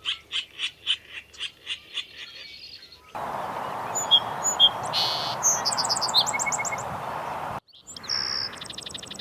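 Wild birds calling and singing in three separate recordings. First comes a rapid series of repeated calls that slows and fades over about three seconds. Then come short high chirps and a fast trill over a steady rushing background, and near the end a clear whistled note followed by a quick trill.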